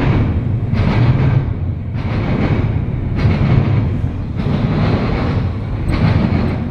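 Intermodal freight cars rolling past on the rails, the wheel noise swelling and easing in a steady rhythm about once a second.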